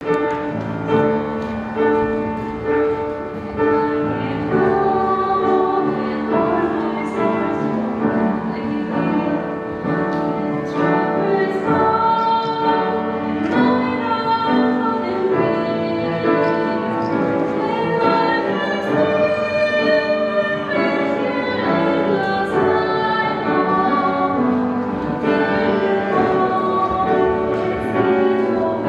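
Women's vocal ensemble singing together in several parts, with long held notes.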